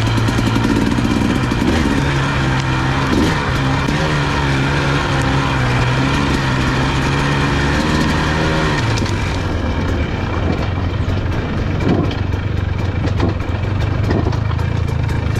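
Motorcycle engine running as it is ridden, holding steady revs, then settling to lower revs about nine seconds in.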